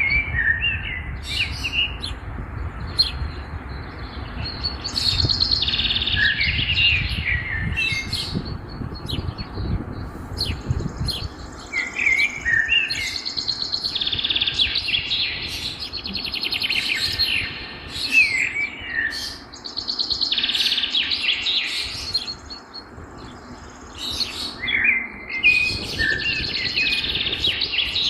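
Songbirds singing and chirping outdoors, one song phrase after another with short calls in between. A low rumble sits under the first ten seconds or so.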